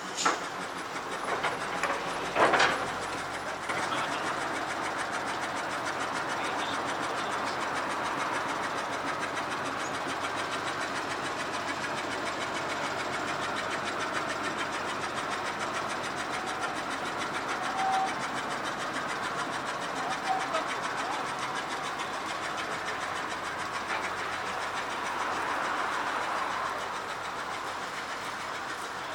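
Brill railcar turning on a railway turntable: a steady mechanical rumble, with a sharp clank about two and a half seconds in.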